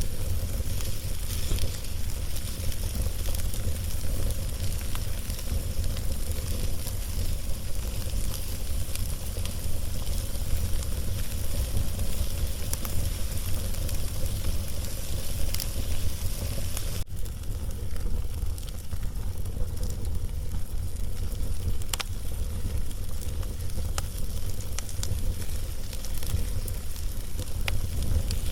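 Wood fire burning on a log, a steady hiss and low rumble broken by scattered sharp crackles and pops. About two thirds of the way through, the hiss suddenly grows quieter while the crackles go on.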